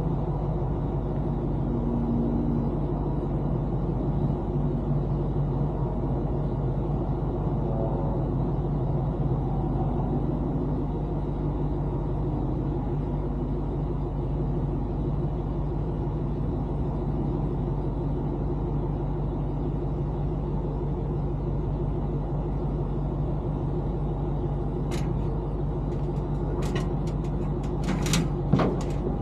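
A motor vehicle running at a steady pace, an even low rumble with no revving. A few sharp clicks or knocks come near the end.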